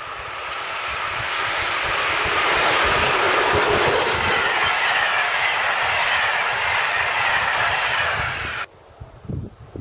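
A train passing at speed on the line, the rush of wheels on rail growing louder as it comes close, then cutting off suddenly near the end.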